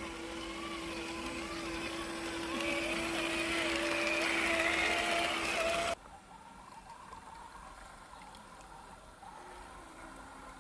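The electric motor and geared drivetrain of a 1/10-scale RC crawler truck whining, the pitch wandering and climbing with the throttle. It stops abruptly about six seconds in, and a quieter motor whine follows.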